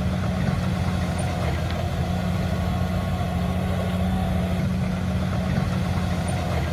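Heavy construction machine's diesel engine running steadily at a constant pitch, a low hum with no change in speed.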